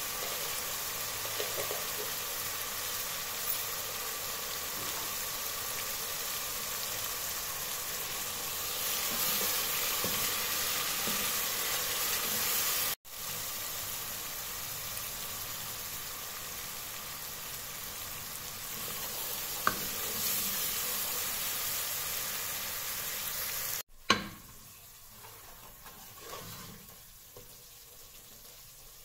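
Spiced tomato masala sizzling as it fries in an aluminium pressure cooker, stirred now and then with a wooden spoon. The steady sizzle breaks off briefly twice and is much softer near the end.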